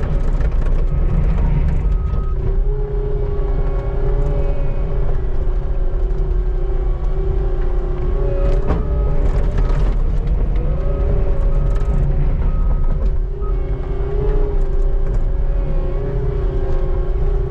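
Skid steer engine running steadily under load, with a steady whine that wavers slightly in pitch and a few sharp knocks.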